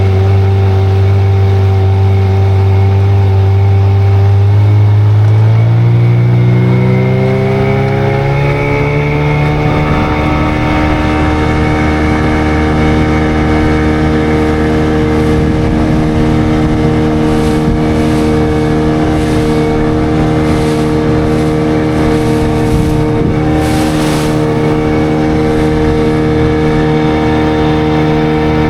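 An engine running steadily, then speeding up over a few seconds about five seconds in and holding at the higher speed.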